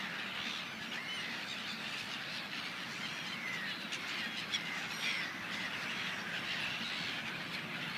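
A large flock of gulls on the water, calling all at once: many short overlapping calls merge into a steady din.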